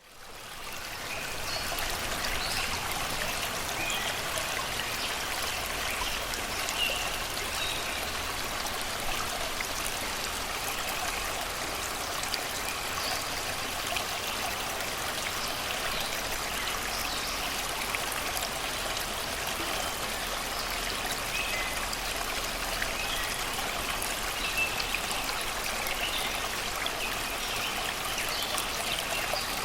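Shallow river water rushing and babbling over rocks, a steady even sound that fades in over the first second. Faint scattered bird chirps sound above it.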